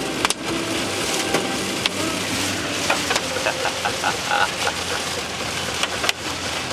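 Rain hitting a moving car and road noise heard from inside the cabin, with scattered sharp ticks of drops striking the car.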